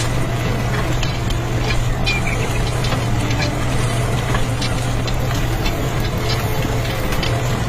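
A small motor running steadily with a constant low hum, with scattered light clicks and rattles over it.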